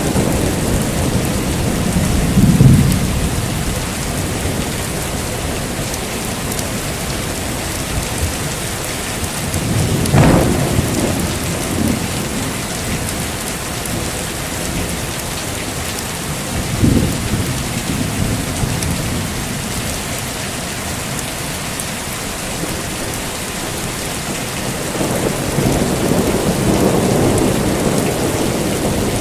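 Heavy rain falling steadily, with thunder rumbling several times: a rumble about two seconds in, a sharper clap about ten seconds in, another about seventeen seconds in, and a long rolling peal near the end.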